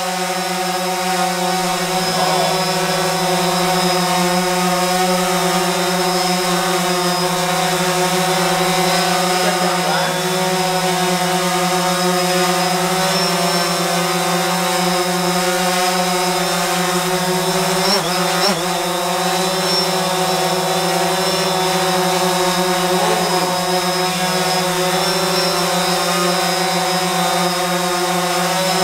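DJI Phantom 4 Pro quadcopter's propellers humming steadily in flight. The pitch rises and falls briefly a few times as the motors change speed, most markedly past the middle.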